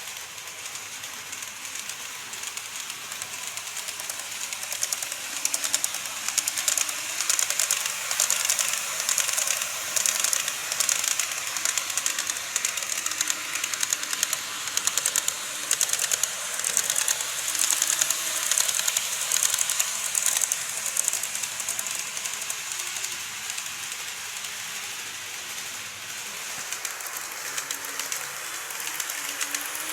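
Model train running on its track: rapid, dense clicking of small wheels over rail joints with a thin high whir. It grows louder toward the middle as it passes close, then fades.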